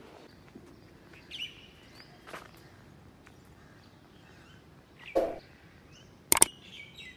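Quiet outdoor ambience with a few short bird chirps. Near the end come a pop and a quick pair of mouse-click sound effects from a subscribe-button animation.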